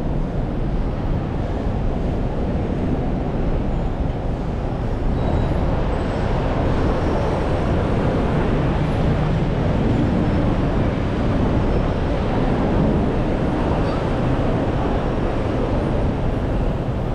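Steady vehicle noise: a continuous low engine and road rumble, a little louder midway through.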